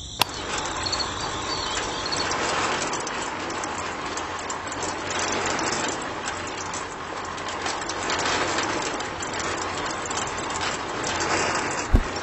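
Miniature DIY concrete mixer running: a small electric motor turning the drum with a steady, rattling mechanical noise, beginning with a sharp click and ending with another click and a low thump near the end.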